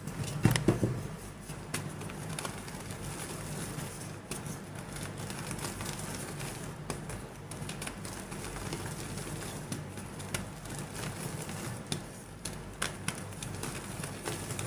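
Soft gym chalk being crumbled and crushed: scattered small crackles and clicks, with a louder crunch about half a second in.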